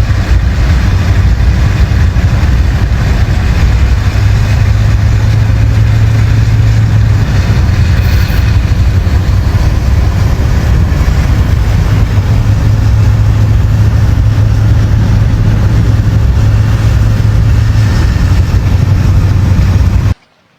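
Motor vehicle running with a loud, steady low rumble of engine and road noise. It cuts off abruptly near the end.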